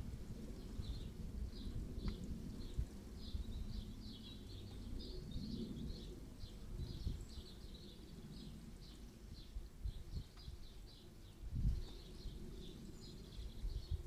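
A small bird chirping continuously in short, high notes several times a second, over low wind rumble on the microphone that rises in gusts, with a stronger gust near the end.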